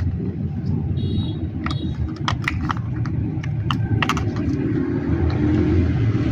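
Light clicks and taps from hand tools and a soldering iron being worked on a fan's wiring, over a steady low rumble that grows slightly louder near the end.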